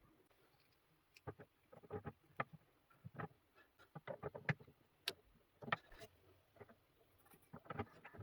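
Irregular light knocks and clicks, coming in clusters a few times a second, like small hard objects being handled and set down.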